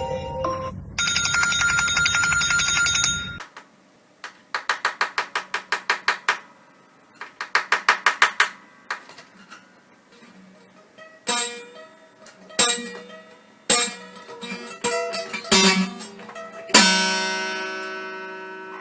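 Bell-like trilling rings, like a telephone bell, coming in a long stretch and then two short bursts. These are followed by a series of separate struck or plucked musical notes that fade out, the last one loud and ringing on.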